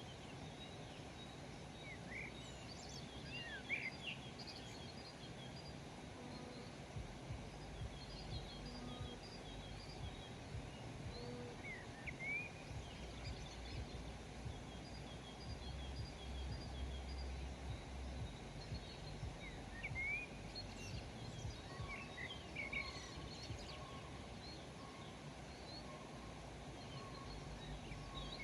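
Several small birds chirping and twittering with short, rising calls scattered throughout, over a steady outdoor background hiss.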